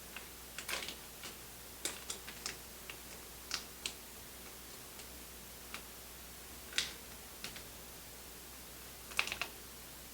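Faint, irregular small clicks and crinkles from an MRE cheese spread packet being squeezed out onto the chicken stew in its ration pouch, with a few louder crackles about seven and nine seconds in.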